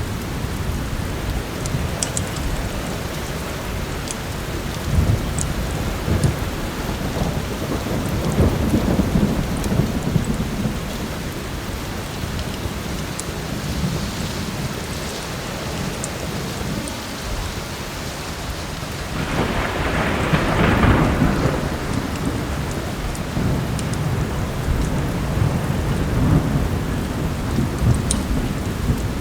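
Heavy rain falling steadily with rolling thunder, including a louder roll about two-thirds of the way through. Now and then a wood fire crackles with a sharp pop.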